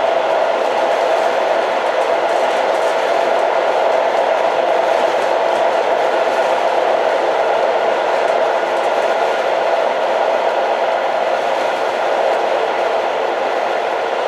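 Old train running steadily, an even, unbroken rumble and rush with no distinct clicks or changes.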